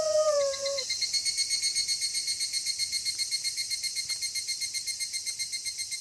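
The tail of a wolf howl slides down in pitch and fades within the first second. After it, night insects chirp in a fast, even pulse, about seven chirps a second, with thin high-pitched tones.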